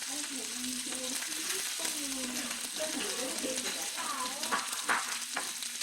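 Grilled pork sizzling steadily on a hot plate at the table, with a few sharp clicks about four to five seconds in.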